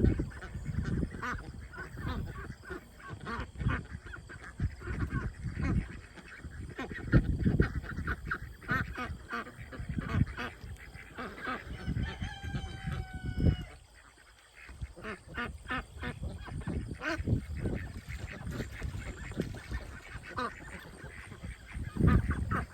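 A mixed flock of domestic ducks, Pekins and Khaki Campbells, quacking and honking in short scattered calls as newly combined birds sort out their pecking order, alongside frequent low thumps.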